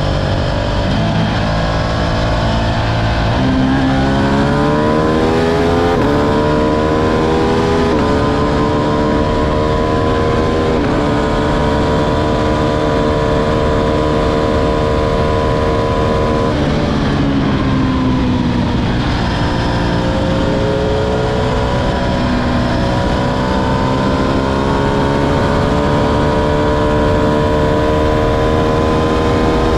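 Ducati Streetfighter V2's 955 cc twin-cylinder engine under acceleration: revs climb and drop back at each upshift through several gears, hold steady, fall away as the bike slows about halfway through, then climb through the gears again. A steady rush of wind runs underneath.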